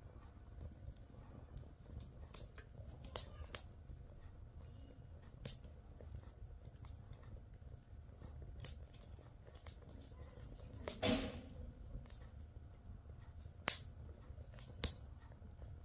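Wood fire in a fireplace crackling: scattered sharp pops and snaps over a faint low rumble, with a longer crackling burst about eleven seconds in and two louder pops near the end.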